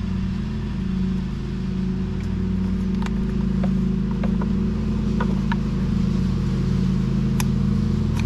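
Steady low hum of a running machine, with scattered light clicks and taps from parts being handled.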